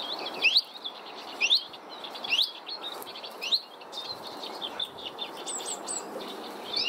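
Small songbirds calling: a short rising chirp repeats roughly once a second, over softer twittering and a few higher notes.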